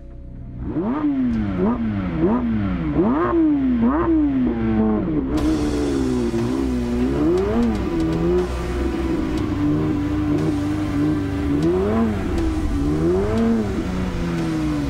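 Porsche 911 GT3 (992)'s naturally aspirated 4.0-litre flat-six revving as the car is driven slowly. First comes a string of quick throttle blips, about one a second, each pitch rising and falling. Then come slower, wider swells in pitch.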